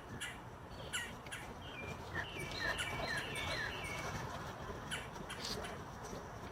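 Small birds chirping outdoors: a quick flurry of short, falling chirps in the middle, with scattered sharp clicks before and after.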